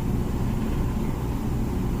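Comfee dishwasher running mid-cycle: a steady low rumble of the pump motor under water spraying inside the tub.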